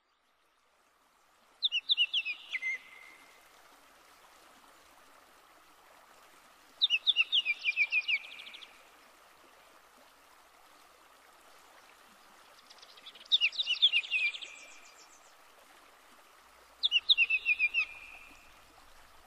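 A songbird singing four short phrases several seconds apart, each a quick run of falling notes ending in a lower trill, over a steady rushing background.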